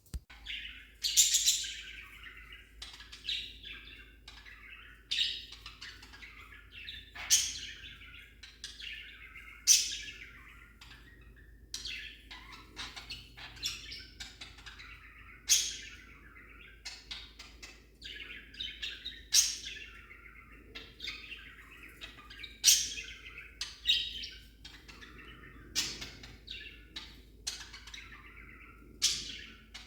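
Budgerigar chattering and warbling without a break, with loud, sharp chirps every two to three seconds.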